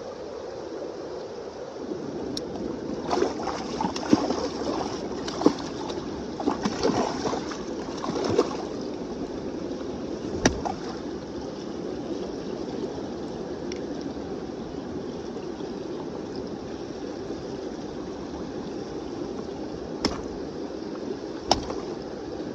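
Kenai River water rushing steadily past the bank, with a flurry of splashes in the first half and a few sharp knocks later on.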